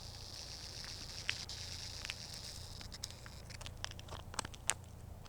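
Scattered light crunches of shoes on a salted sidewalk, coming more often in the second half, over a faint steady hum and hiss of the outdoor background.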